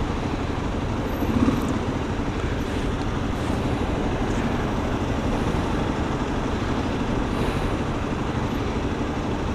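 Kawasaki KLX250's single-cylinder four-stroke engine running steadily while riding in city traffic, mixed with road noise and wind, with a brief louder swell about a second and a half in.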